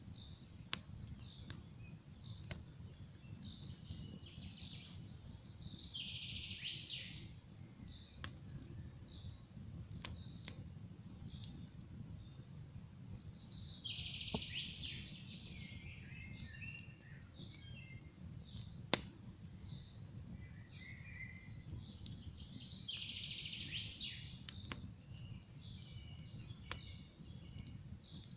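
Campfire crackling, with scattered sharp pops over a low steady rumble, while songbirds sing in repeated bursts of chirping phrases, louder three times.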